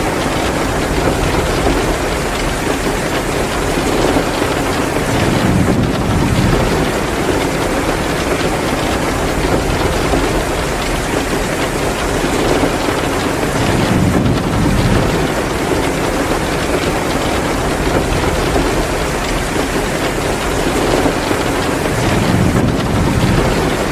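Heavy pouring rain, a loud steady hiss, with three low rumbling swells that come and go about every eight or nine seconds.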